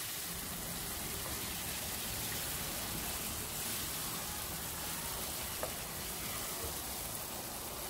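Chicken drumsticks and onion-tomato masala sizzling in an iron kadai while a wooden spatula stirs them, a steady hiss with one small click a little over five seconds in.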